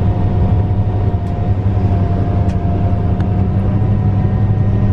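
Vehicle engine running steadily: a loud low drone with a thin, steady whine above it.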